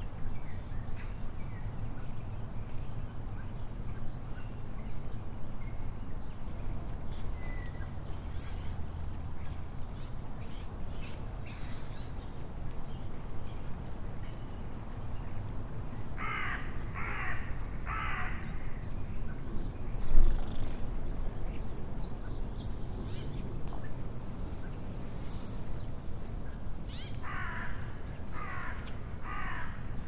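Wild birds in winter trees: small birds chirping on and off over a steady low background rumble, and a larger bird giving two runs of three harsh calls, one a little past halfway and one near the end. A brief thump sounds about two-thirds of the way in.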